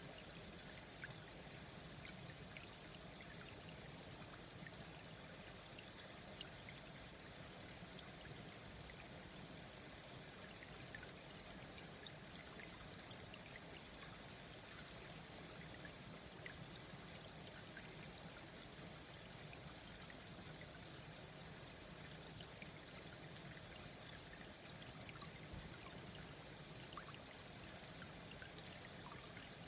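A small, slow-flowing stream babbling quietly and steadily, with scattered small splashes and drips.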